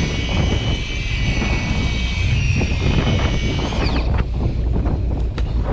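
Fishing boat's engine running underway, a steady low rumble with wind and water noise. A high multi-tone whine sounds over it, then falls in pitch and cuts off about four seconds in.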